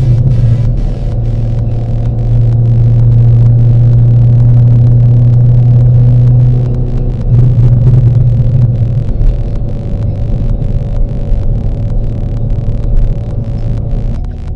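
Car engine and road noise at a steady cruising speed, a low, even drone that holds its pitch and eases a little in the second half.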